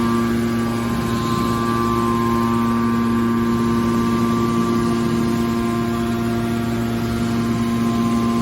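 Hydraulic pump and electric motor of a scrap metal baler running with a steady hum.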